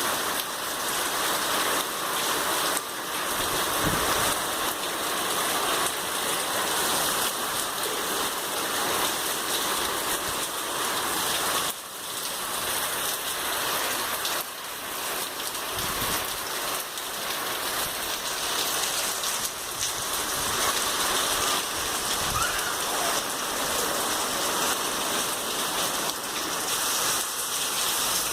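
Steady rain falling and pattering on surfaces, with a few brief low thumps.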